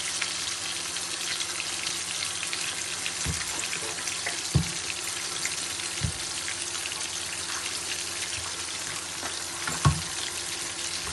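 Food sizzling steadily in hot oil in a pan, with a few soft knocks of a utensil against the pan.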